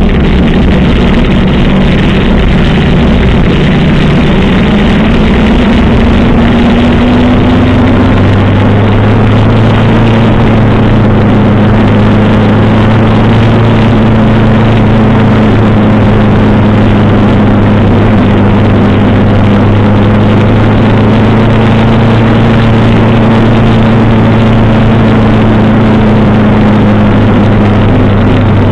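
1985 Suzuki GS 700 ES inline-four engine running steadily at cruising speed, heard from on board the motorcycle along with heavy wind and road noise. The engine note shifts slightly about seven seconds in, then holds even.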